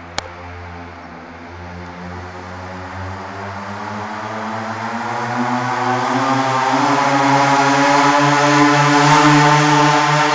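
Small minibike engine running steadily, growing louder over several seconds as it comes closer, loudest near the end. A single sharp click sounds just after the start.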